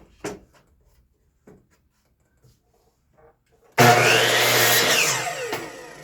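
A few light knocks, then about four seconds in an electric miter saw starts abruptly and cuts through a wooden fence picket. The motor then winds down with a falling whine.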